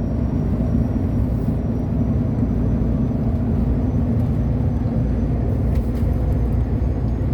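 Steady low drone of a long-haul truck cruising on the highway, its engine and tyre noise heard from inside the cab.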